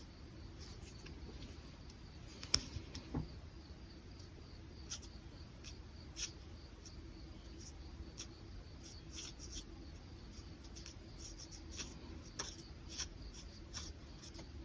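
Brush pen strokes on paper: short, irregular scratches and taps, with a sharper tap about two and a half seconds in, over a faint steady hum.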